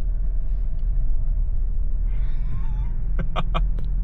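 Van ploughing through deep snow drifts, heard from inside the cab: a steady low rumble of engine and tyres. A brief hiss comes about two seconds in, then a quick run of four sharp knocks just past three seconds.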